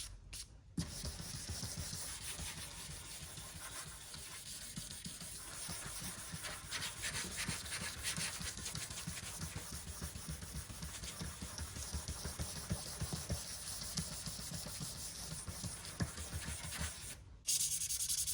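Hand sanding block with 400-grit paper rubbing over guide-coated primer in quick, continuous strokes, blocking the primer down. The rubbing stops briefly just after the start and is louder for about the last second.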